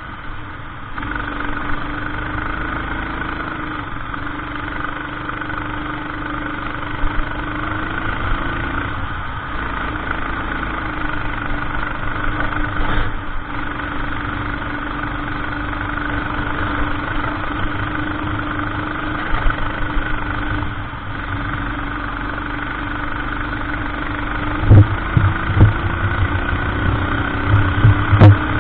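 Racing kart engine running at speed, its pitch dipping and climbing again several times as it slows for corners and accelerates out. A few loud low thumps near the end.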